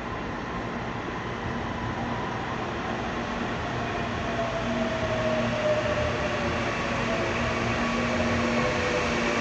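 CPTM electric commuter train running past, growing louder as it comes closer. A rumble under several whining tones from its motors, one of them sliding slowly down in pitch.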